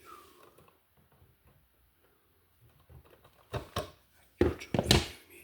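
Handling noise from electrical work at an outlet box: small knocks and clicks of tools and wiring, with a cluster of sharper knocks about three and a half to five seconds in.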